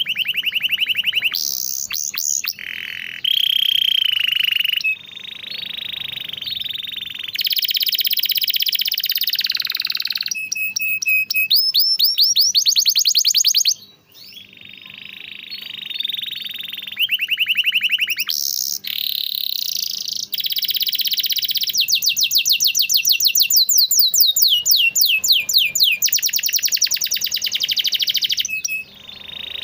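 Domestic canary singing a continuous song of fast trills and long rolls, changing phrase every few seconds, with bursts of rapid repeated chirps. The song breaks off briefly about fourteen seconds in.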